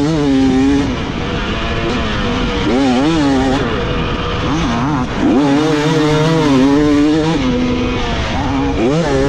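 Dirt bike engine revving hard on a motocross track, rising and falling in pitch as the throttle opens and closes, and held high for about two seconds in the middle.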